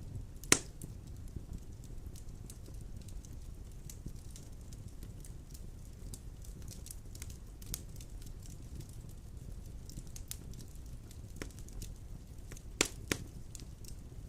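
Wood fire burning in a stone fireplace: a low steady rumble of flames with scattered crackles, a sharp pop about half a second in and two more close together near the end.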